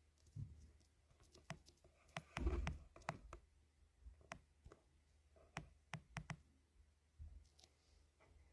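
Faint scattered taps and clicks of fingers on a phone being handled close to its microphone, with a brief rustle about two and a half seconds in.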